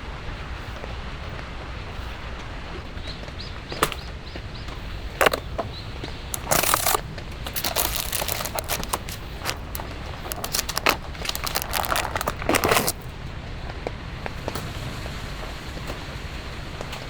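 Steady rain noise, with a run of sharp crackling and crinkling handling sounds from about four seconds in until about thirteen seconds in, loudest near the end of that run.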